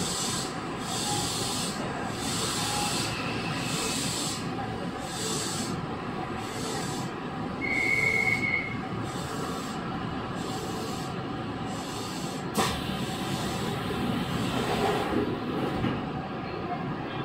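On-board running sound of a Chiba New Town Railway 9100 series WN-drive motor car travelling steadily on the line, with wheels rumbling on the rails and a steady hum held at one pitch. A brief high wheel squeal comes about eight seconds in, and a single sharp click about twelve seconds in.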